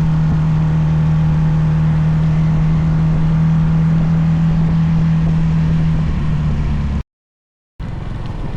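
Small mini bike engine running at a steady pace under way, with road and wind noise. About seven seconds in the sound cuts out completely for under a second and comes back quieter.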